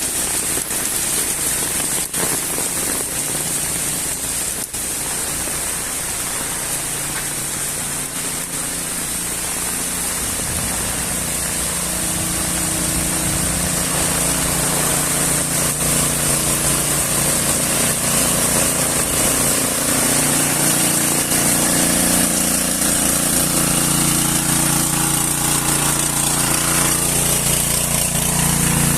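Steady, fairly heavy rain. In the second half a motor vehicle's engine hum rises over it and grows louder toward the end.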